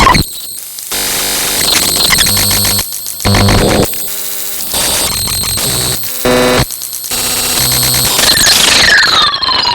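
A harsh collage of loud static and electronic noise, switching abruptly every second or so between hissing static and buzzy tones, with a falling whistle-like sweep near the end.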